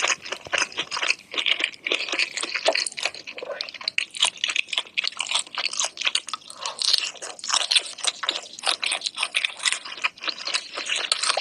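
Close-miked ASMR eating sounds: rapid, crackly crunching and chewing of seafood, bite after bite with no pause.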